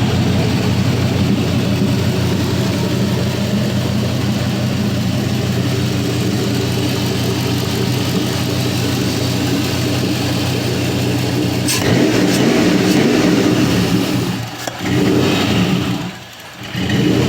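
4.8L LS V8 (Gen III LR4) running on an engine test stand, first at a steady idle. About twelve seconds in there is a click, and the engine runs louder and higher. Near the end the engine speed sags twice and picks back up as it stumbles toward a stall, which the builder puts down to the engine having no transmission load on it.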